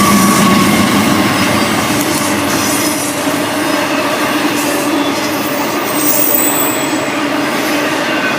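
Norfolk Southern freight train rolling past, a steady loud rumble of steel wheels on rail with thin high wheel squeals coming and going.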